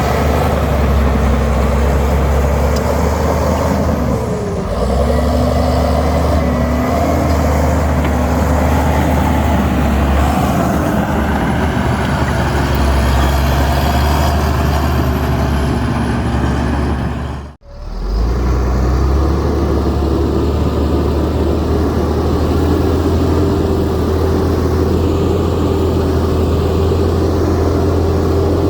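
Heavy diesel earthmoving machinery running continuously, the engine's pitch shifting a little as it works. The sound cuts out abruptly for a moment about two-thirds of the way through, then carries on.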